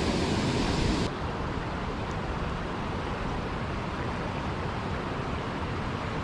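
Steady hiss of rain mixed with rushing water, even and without pitch; it drops a little in level about a second in.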